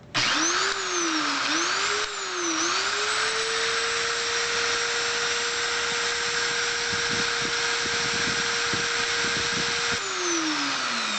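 Electric drill spinning a tape-drive capstan on a drill bit while a file takes it down. The motor whine wavers in pitch for the first few seconds, then runs steadily over a hissing rasp. About ten seconds in the motor is switched off and whines down.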